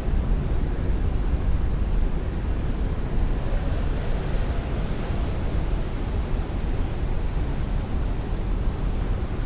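Heavy rain beating on a window with strong wind, a steady rushing noise dominated by a deep low rumble; the hiss of the rain swells briefly around the middle.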